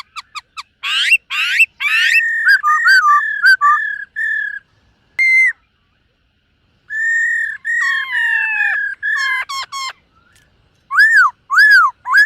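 Black-throated laughingthrush singing: a quick run of short notes, then loud clear whistled phrases with slurred and sweeping notes. A pause of about a second comes near the middle, and the song ends with loud arching whistles.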